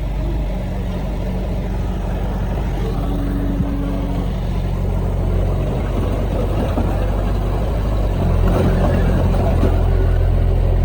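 Heavy diesel engine of earthmoving machinery running steadily, growing louder about eight seconds in.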